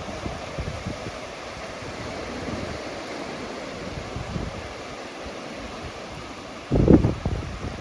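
Ocean surf washing onto a beach with wind blowing over the microphone, and a sudden loud gust buffeting the microphone near the end.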